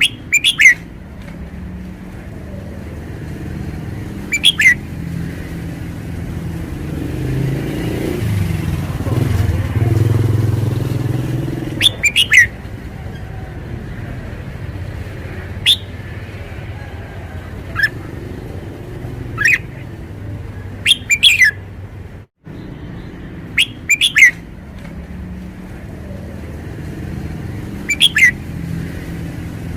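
Red-whiskered bulbul singing short, quick whistled phrases, about nine of them spaced a few seconds apart, over a steady low motor rumble that swells about eight seconds in and fades again.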